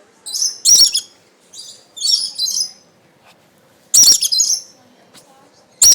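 Birds calling close by in short, shrill bursts, four loud ones spaced about two seconds apart.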